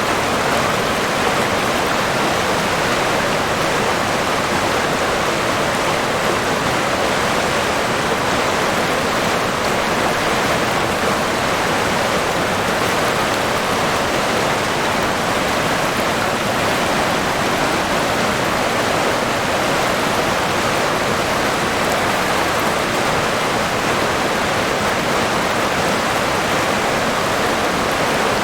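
A river's flowing water rushing and burbling, a steady, even wash of sound.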